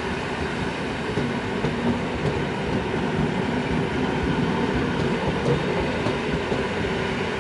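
Towed EN57 electric multiple unit cars rolling past on the rails: a steady rumble of steel wheels on track.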